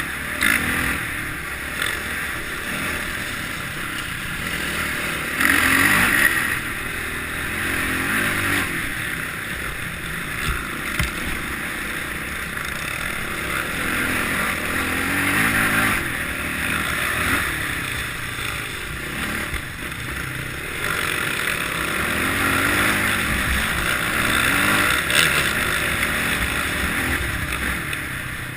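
Kawasaki KLX650R's single-cylinder four-stroke engine running under way, its pitch rising and falling with the throttle and with a hiss over it; it swells loudest about six seconds in and again near the end.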